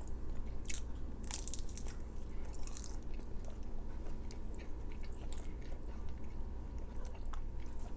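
A person chewing and biting into orange chicken close to the microphone, with short crisp crunches scattered through.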